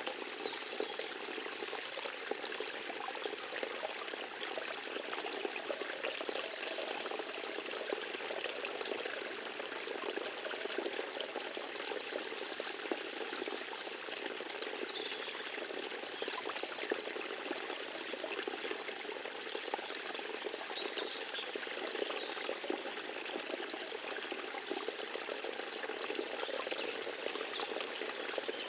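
Forest stream trickling steadily, a continuous even rush of running water.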